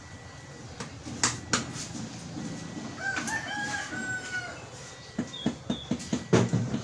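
A rooster crows once, about three seconds in, for about a second and a half. Sharp knocks sound around it: a few near the start, and a quick run of about four a second near the end.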